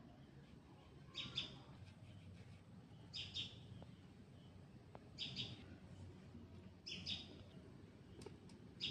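A bird calling: a short, high double note repeated about every two seconds, five times.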